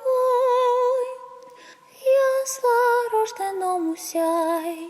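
A solo female voice singing unaccompanied: long held notes with vibrato, the phrase stepping down in pitch toward the end. It carries the natural reverberation of a large, hall-like room.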